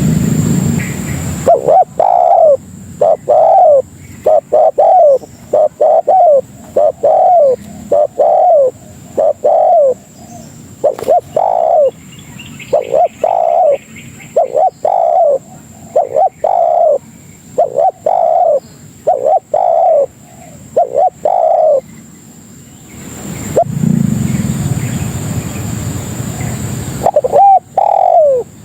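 Spotted dove (tekukur) cooing: a long, quick run of repeated short coo notes, then a pause and two more coos near the end. A low rumble of background noise is heard at the start and in the pause.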